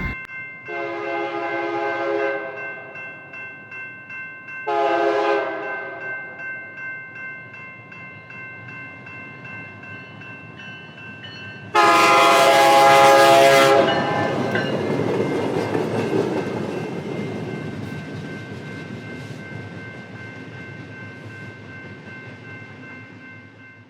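Train sounding three blasts of its horn: two shorter ones, then a longer, louder one about twelve seconds in. The train's running noise fades away slowly after the last blast.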